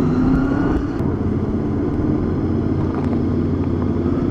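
Motorcycle engine running steadily under way with wind and road noise, its pitch rising slightly in the first second and then holding steady.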